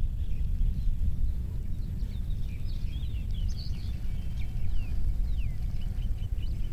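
Several small birds chirping and whistling in short calls, with a quick run of short notes near the end, over a steady low rumble.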